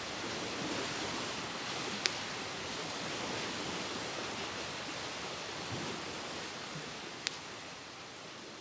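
Steady, even outdoor rushing noise of wind or water, with two sharp clicks about two and seven seconds in, growing quieter near the end.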